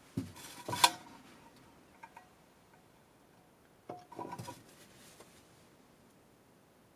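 Hard objects being handled and set down, clinking and knocking: a ringing clink about a second in, two light taps near two seconds, and a short clatter about four seconds in.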